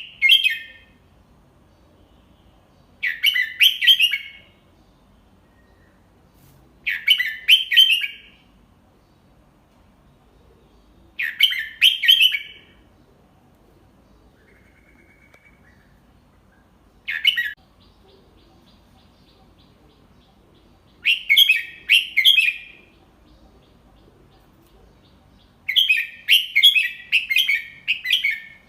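Red-whiskered bulbul singing: short, bubbly, warbled song phrases about a second long, repeated roughly every four seconds. One phrase in the middle is clipped short, and a longer run of notes comes near the end.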